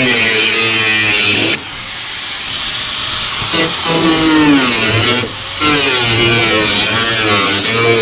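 Handheld power tool cutting styrofoam, running in three long spells with its pitch wavering under load, over a steady hiss.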